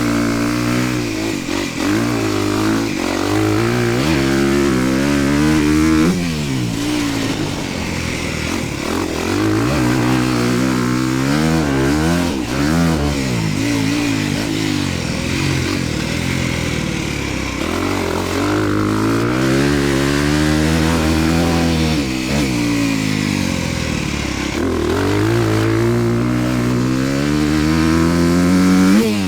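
Honda dirt bike engine revving hard and easing off again and again as it accelerates out of turns, climbs through the gears and rolls off the throttle around a motocross track.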